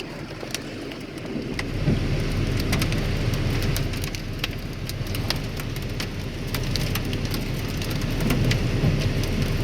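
Heavy rain and hail pounding a vehicle: a dense rush of rain with many scattered sharp hits of hailstones. A low roar builds about a second and a half in.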